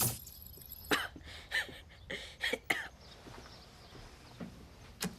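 A person with laryngitis coughing in a few short, hoarse bursts, between about one and three seconds in.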